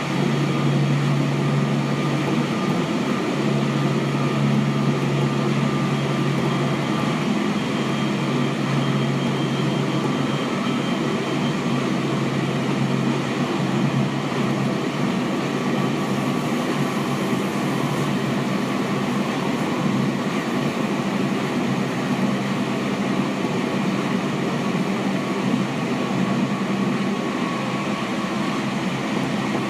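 Seibu 6000 series electric train with Hitachi GTO-VVVF traction equipment, heard from inside a passenger car running fast between stations. A steady mix of wheels rolling on rail and traction motor and gear noise, with faint steady tones and no change in speed.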